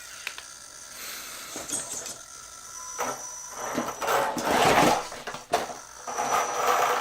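RC crawler truck's electric motor and geared drivetrain whirring in bursts as it crawls slowly over wooden logs, louder about halfway through, with a few knocks of the truck against the wood.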